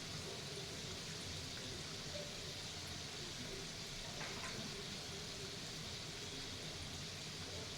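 Steady background hiss with one faint tap about four seconds in.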